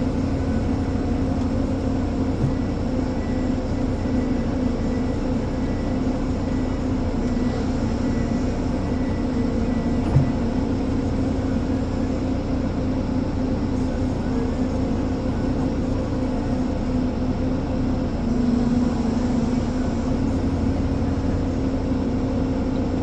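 Diesel engine of a Ponsse Elephant forwarder running steadily with an even drone, with one small knock about ten seconds in.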